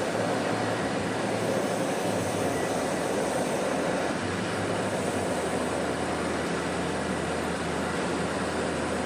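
Handheld gas torch burning with a steady hiss, heating a repair ring until it is soft enough to melt into place.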